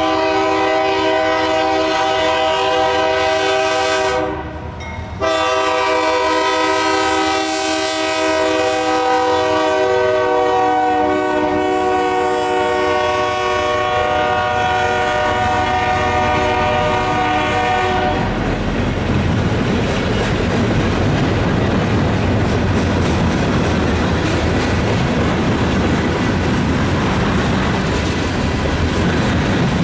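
Diesel locomotive air horn sounding a multi-note chord: one blast breaks off about four seconds in, then a long blast is held until about eighteen seconds in. After it the locomotives and freight cars of the mixed freight train roll past with a steady rumble and clickety-clack of wheels on rail joints.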